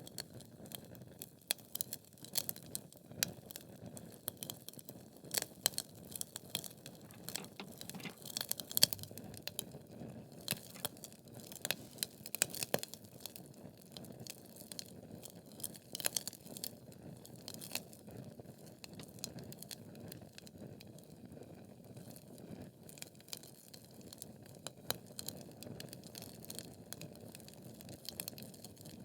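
Wood logs burning in a fireplace: frequent irregular crackles and sharp pops, more of them in the first half, over a soft low rush of flame.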